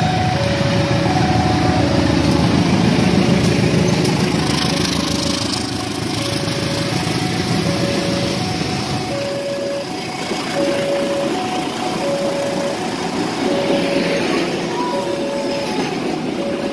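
Diesel-electric locomotive passing close by with its engine running loud, then its passenger coaches rolling past with the wheels running on the rails; the engine sound drops away about six seconds in. A two-note electronic beeping repeats steadily underneath.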